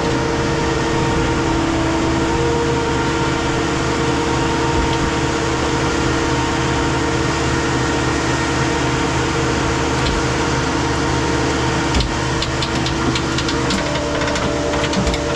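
Heavy machinery engine running steadily with a constant hum and whine, with a few sharp clicks and knocks near the end.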